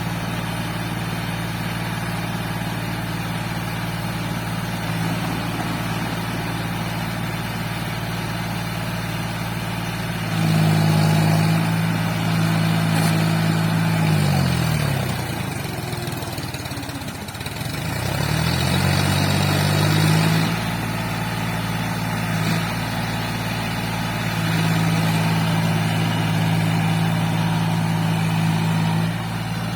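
John Deere tractor's diesel engine running steadily, revving up about ten seconds in. Around fifteen seconds in its note sinks to a low, labouring pitch, then climbs back a couple of seconds later, and it runs higher again near the end.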